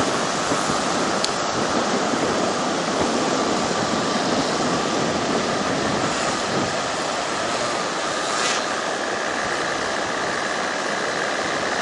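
Steady rushing noise of strong wind on the microphone, mixed with beach surf.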